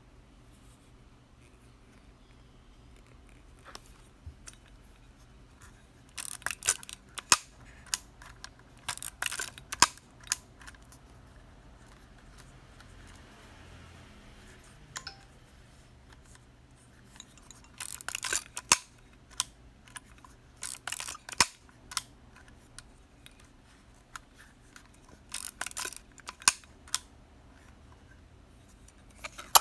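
Minolta AL mechanical film camera being worked by hand: three bursts of rapid clicking and ratcheting, with single sharp clicks between them.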